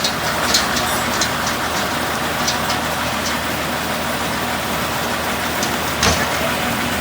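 Truck engine running steadily. A few light clicks come in the first three seconds, and there is a louder knock about six seconds in.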